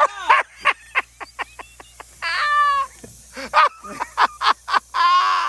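A man laughing hard: a rapid run of short high-pitched laughs, broken by two longer squealing wails about two seconds in and near the end.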